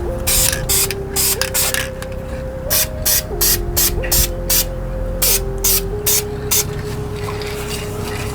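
An aerosol can of Krylon High Heat black gloss spray paint, sprayed in many short, quick hissing bursts.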